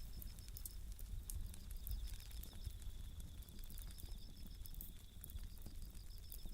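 Bell crickets (suzumushi) singing a high, pulsing trill over a wood campfire crackling with scattered sharp pops, with a low steady rumble underneath.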